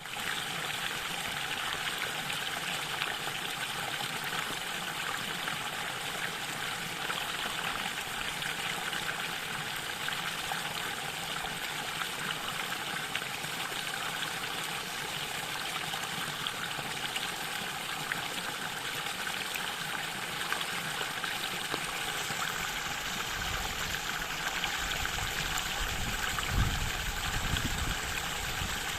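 Mountain stream flowing over rocks: a steady, even rush of water. A low rumble joins in for the last few seconds, with one brief louder thump among it.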